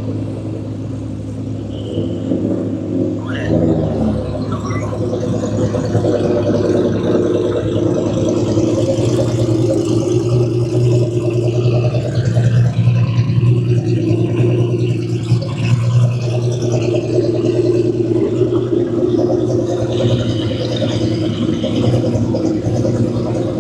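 Drag racing cars' engines running with a steady low rumble, the sound holding fairly even throughout.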